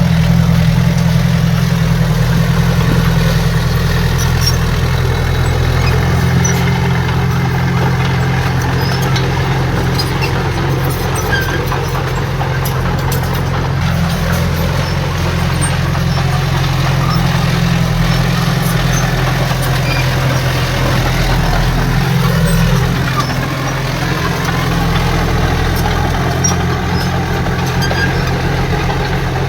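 Heavy diesel earthmoving machinery running steadily with a low, even engine drone. The sound dips briefly about two-thirds of the way through.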